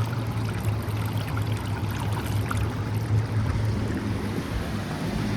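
Fast river water rushing and splashing over rocks, with the steady low hum of a passing jet boat's engine underneath.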